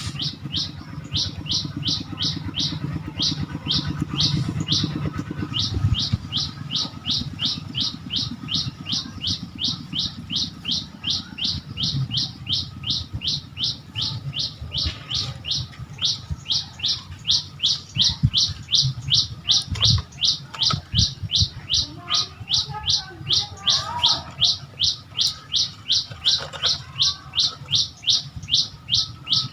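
A bird calling over and over in a steady run of short, high, down-slurred chirps, about three a second, with a low rumble and a few soft thuds underneath.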